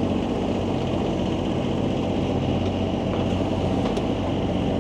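A sailboat's engine running steadily while motoring slowly through a harbour, a constant low hum.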